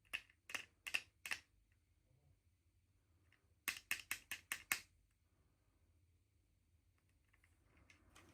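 Sharp, light clicks: four spaced clicks, then a quick run of six about a second apart from each other at under a quarter second, followed by faint rustling near the end.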